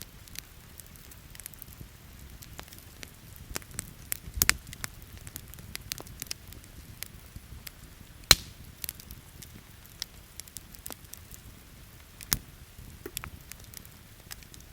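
Wood campfire crackling steadily with frequent small snaps. Three louder pops land about four, eight and twelve seconds in.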